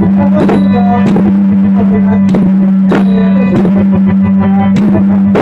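Loud traditional music for a Khmer Rum Mae Mot spirit-healing dance: irregular drum strokes over a steady low drone, with a wavering melody line above.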